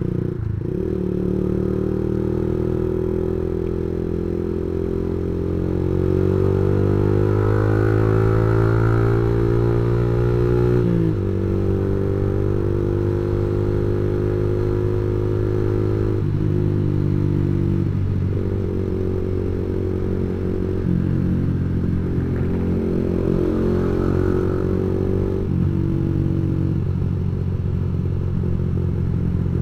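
Yamaha MX King 150's single-cylinder four-stroke engine running through a custom aftermarket exhaust while being ridden. The pitch rises steadily as it accelerates, drops suddenly about eleven seconds in at a gear change, and shifts up and down several more times after that.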